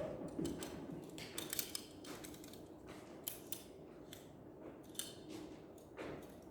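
A handful of light, sharp clicks and snips spread over several seconds, the sound of hand tools being handled at work, over a low steady room hum.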